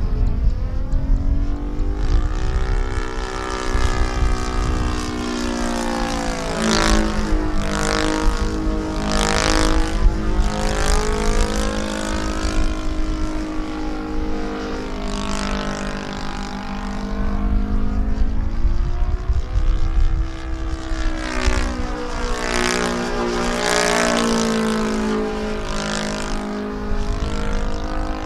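Saito FG-50 four-stroke gasoline engine on a large RC aerobatic airplane in flight, its propeller note rising and falling in long sweeps as the plane passes and manoeuvres.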